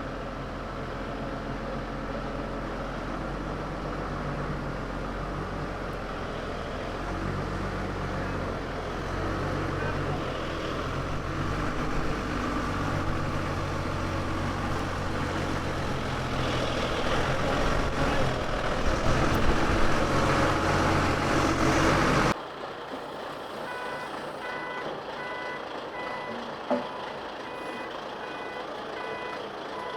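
Diesel engine of a heavy 16-ton forklift working under load, its revs rising for the last few seconds before a sudden cut. Then a quieter engine with a reversing alarm beeping in a repeating pattern.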